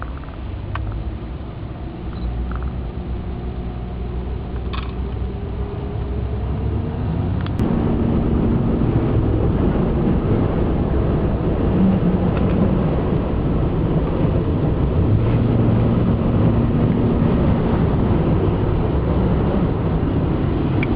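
A vehicle engine and road noise heard from inside a moving truck cab, with the engine note rising over the first few seconds and getting louder about seven seconds in as it picks up speed.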